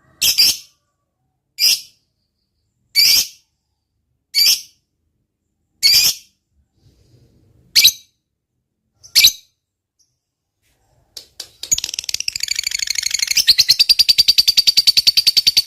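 A lovebird gives a string of short, shrill single chirps about every second and a half. About twelve seconds in it breaks into a long, fast, rattling chatter: the prized 'ngekek panjang' call.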